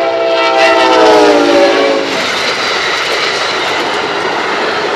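A passing locomotive's air horn sounds a chord that drops in pitch as it goes by, then cuts off about two seconds in. The train's rolling rumble and wheel clatter on the rails carry on after it.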